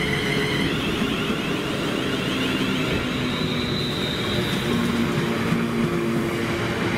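A train running past at close range: a steady, loud rumble with a thin high whine above it that shifts up in pitch about a second in.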